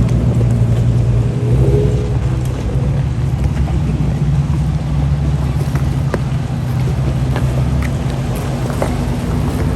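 Off-road vehicle's engine running steadily at low revs, with scattered light knocks and clicks over the top.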